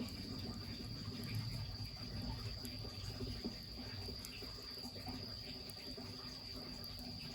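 Crickets trilling steadily on one continuous high note, over the low rumble and faint scattered crackle of a wood fire and running spring water.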